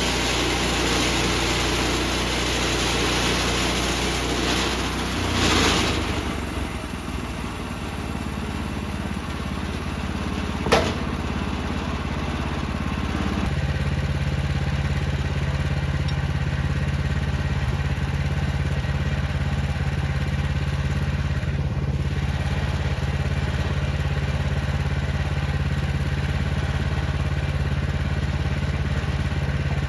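Small gas engine of a portable bandsaw sawmill running steadily, its note changing about five seconds in and again about thirteen seconds in, with one sharp click near eleven seconds.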